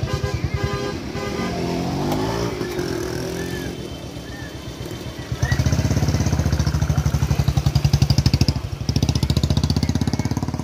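A motorcycle engine running close by with a fast, even putter amid slow traffic. Its pitch briefly rises and falls about two seconds in, and the engine gets louder and steadier about five seconds in.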